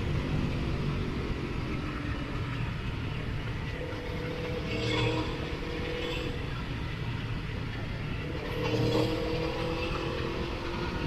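Motorcycle engine running on the road over a steady rush of wind, its pitch rising and falling a few times as the throttle changes.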